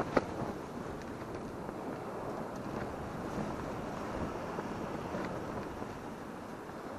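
Wind buffeting the microphone over the steady wash of surf, with one sharp knock just after the start.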